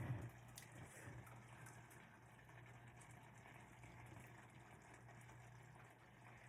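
Near silence: a faint steady hiss and low hum of room tone, with a faint click or two.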